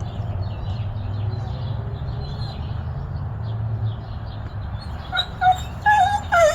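Chickens calling, with faint high chirps throughout and a few loud calls near the end, over a steady low rumble.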